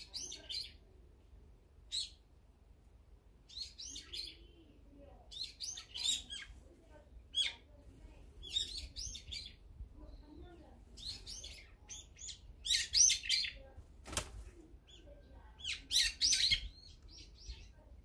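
Small songbirds chirping in short, high bunches of calls every second or two. One sharp knock about two-thirds of the way through.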